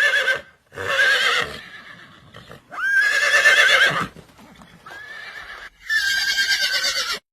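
Horse whinnying several times in a row, each neigh a high, quavering call of about a second.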